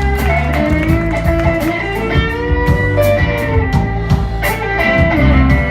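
Live blues band playing: electric guitar lead with held and bending notes over bass and drums with a steady beat.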